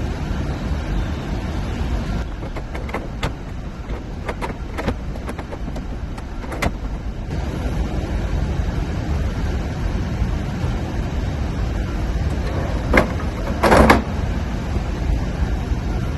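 A few light knocks, then near the end a sharper knock and a short scrape, as a wooden dresser and its drawer are handled. The dresser's base is bent, so the drawer does not sit properly. A steady low rumble runs underneath.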